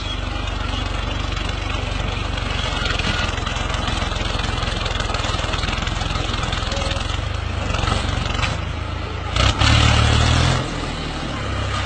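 Tractor engine running with a steady deep rumble. About nine and a half seconds in it revs up sharply for about a second, drops back, then rises again near the end.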